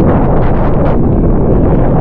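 Strong wind buffeting the microphone: a loud, steady rumble with a few faint clicks in it.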